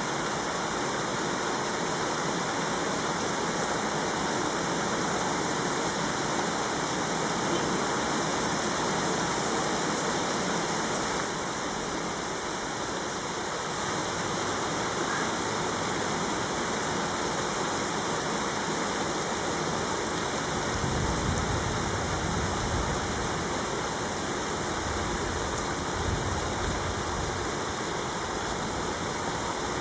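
Heavy rain pouring steadily during a thunderstorm. A low rumble joins in about two-thirds of the way through.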